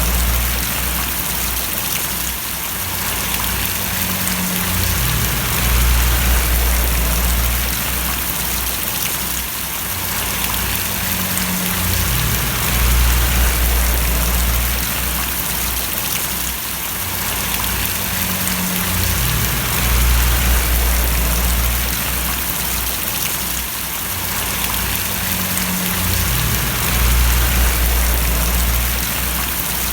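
Steady rain falling and splashing, with a low hum underneath that swells and fades about every seven seconds.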